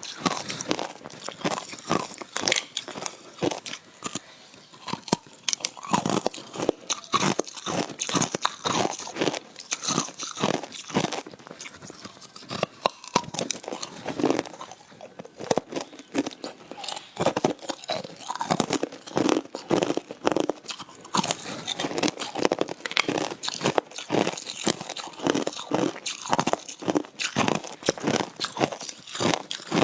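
Hard ice being bitten and chewed close to the microphone: a run of loud, irregular crunches, several a second, as the ice cracks between the teeth.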